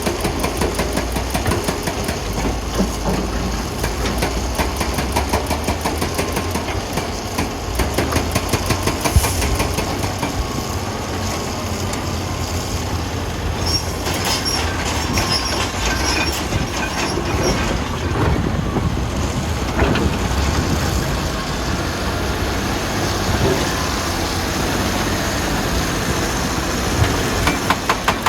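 Heavy diesel wheel loader engine running under load, with a continual clatter of knocks and rattles over it.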